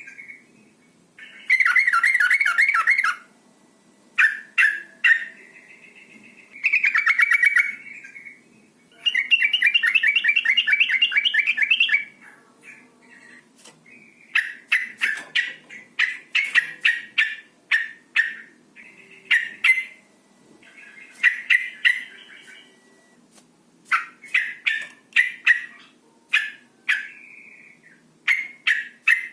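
Female sooty-headed bulbul calling: a few rasping, chattering phrases each a couple of seconds long, then from about halfway quick runs of short sharp 'cuk' notes. The uploader calls these the excited calls of a female in breeding condition, used to get males singing.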